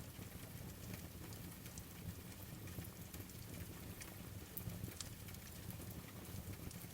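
Wood fire crackling with rain falling: a steady low rumble and hiss under scattered sharp pops and ticks.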